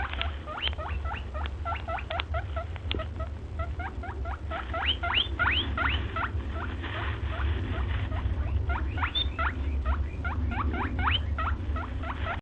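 Rapid high-pitched animal squeaks, about three or four a second in runs with short pauses, over a steady low rumble.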